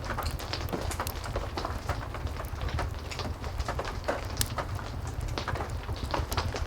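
Heavy rain falling steadily, mixed with a wood fire crackling: frequent sharp pops and snaps scattered over a low, steady rumble.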